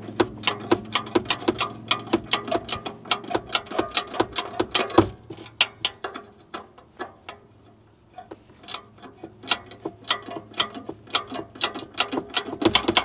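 Hand ratchet clicking in quick runs of about four clicks a second, with a short lull past the middle, as it works loose a tight exhaust spring bolt.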